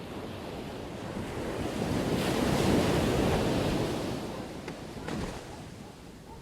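Ocean waves crashing on the shore: one wave builds to its loudest about three seconds in, then washes back and fades.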